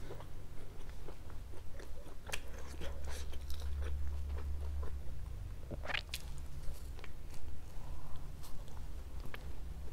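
Close-miked chewing of pizza, with many short mouth clicks and wet smacks, and another bite into the slice near the end.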